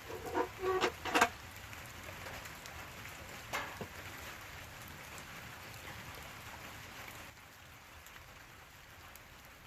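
Steady rain falling, with a few short ringing clinks in the first second or so and one more click a few seconds later.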